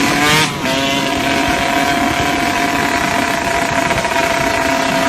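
Motorcycle engine running at steady high revs, with a brief rise and break in pitch about half a second in.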